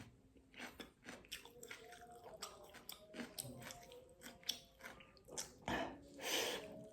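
Close-up eating sounds: chewing a mouthful of fish, with wet mouth smacks and small clicks, and a louder bite or slurp near the end.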